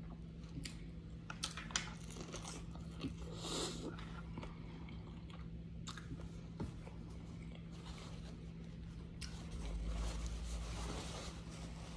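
A person chewing and biting food close to the microphone, with irregular crisp clicks and mouth sounds, over a faint steady hum.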